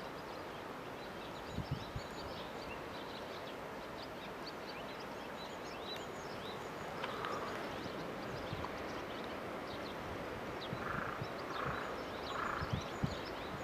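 Birds chirping and twittering over a steady outdoor background hiss, with a few soft knocks.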